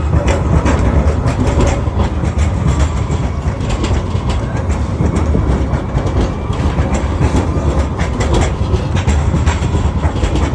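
Tram running along its rails: a steady low rumble with irregular clicks and clacks from the wheels.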